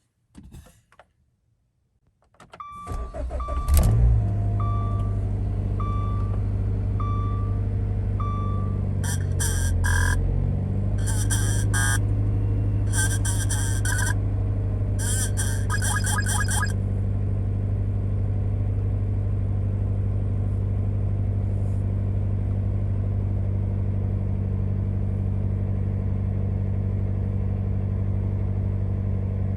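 2015 Dodge Dart GT's 2.4-litre inline-four cold start below freezing: after a faint click it cranks briefly, catches with a flare about four seconds in, and settles to a steady idle. Electronic warning beeps repeat over the first several seconds, followed by groups of sharper chimes until about halfway through.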